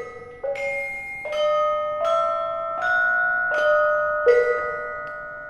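Gamelan bronze metallophones playing a slow melody of single struck notes, about one every three-quarters of a second, each ringing on and overlapping the next. The pitch steps upward over several notes and then drops back down near the end.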